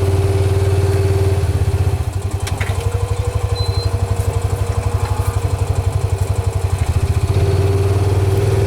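A farm vehicle's engine idling steadily. For a few seconds in the middle its note turns into an evenly pulsing, slightly quieter beat, then it settles back to the steady idle.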